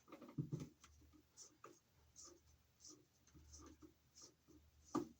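Faint scratching and small clicks of a plastic wire nut being twisted tight by hand onto twisted copper wires, with a sharper click about five seconds in.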